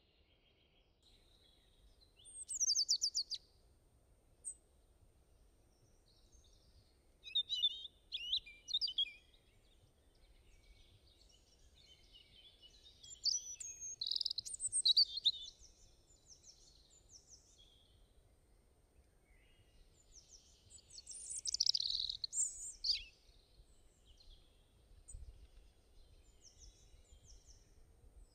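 Birds chirping and singing in four short, high phrases a few seconds apart.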